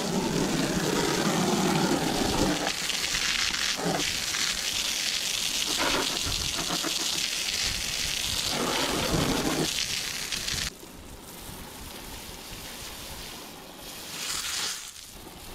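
Water poured and splashing over a large fossil ammonite, washing the mud off it; the rush stops abruptly about eleven seconds in, leaving a quieter hiss.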